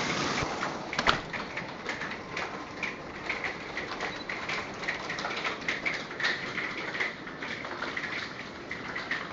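Hail falling hard: a dense, rain-like hiss full of sharp, irregular ticks and clatters as hailstones strike. One louder hit comes about a second in.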